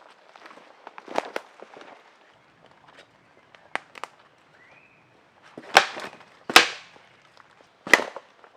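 A few sharp cracks. The three loudest come in the second half, roughly a second apart, over quieter rustling.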